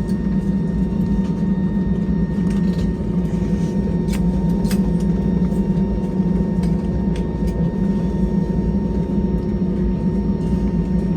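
Airliner cabin noise while taxiing after landing: a steady engine drone with a thin steady whine over it, and scattered light clicks from the cabin.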